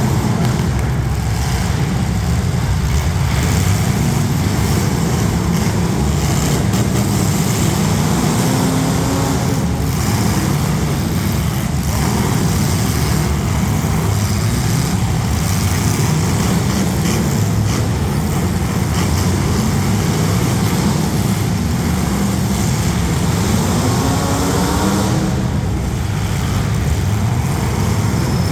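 Several demolition derby street stock cars' engines running together, with engines revving up in pitch about a third of the way in and again near the end.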